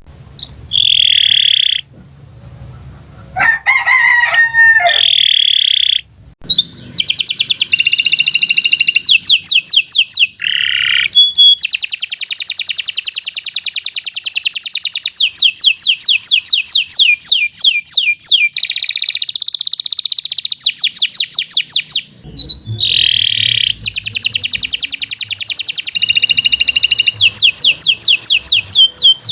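Domestic canary singing a long, loud song of fast rolling trills and rapidly repeated notes, with short pauses between phrases.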